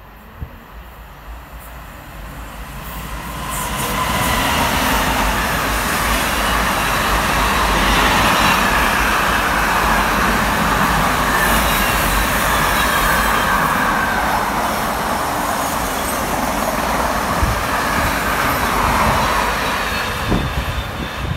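Container freight train approaching and passing. The noise builds over the first few seconds into a long, steady rumble and rush of wagon wheels on the rails, with a high wheel squeal running faintly over it.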